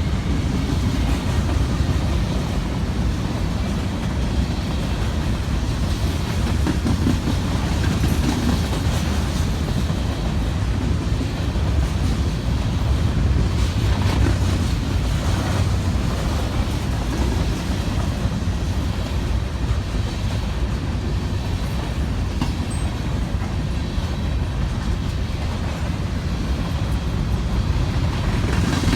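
A freight train rolling steadily past, a continuous low rumble of rail cars with faint clicking of wheels over the rail joints.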